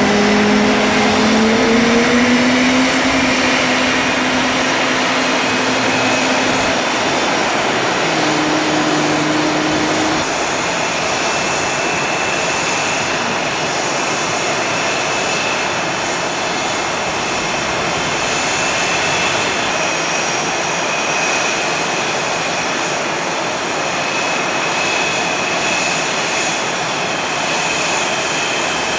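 Loud, steady jet noise from F/A-18 Hornet fighter jets, with a few low tones in the first ten seconds and a faint high whine through the rest.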